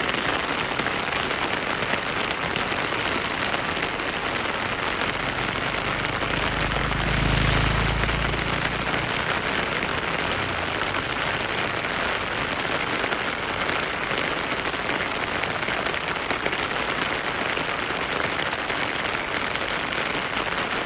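Heavy rain falling steadily. A brief low rumble swells and fades about seven seconds in.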